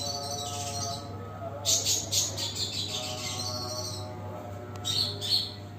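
Long-tailed shrike (cendet) singing in bursts of rapid, sharp high notes, the loudest about two seconds in and another short burst near the end.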